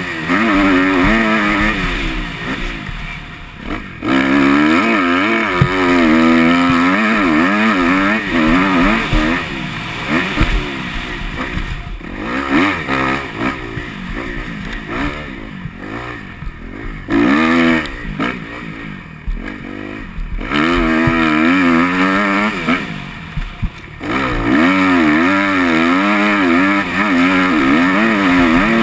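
Motocross bike engine revving hard, its pitch rising and falling as the throttle is opened and shut. The revs drop back briefly several times before picking up again.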